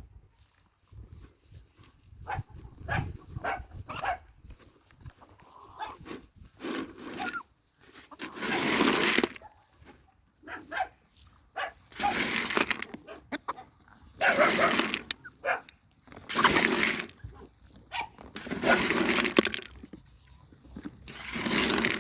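Farm animal calls: a few short, sharp calls in the first seconds, then loud calls about a second long, repeated every two to three seconds.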